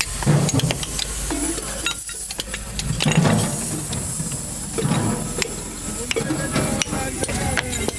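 Scrap metal parts from a dismantled compressor clinking and scraping as they are broken apart and handled, many quick sharp clicks over a steady hiss and low hum.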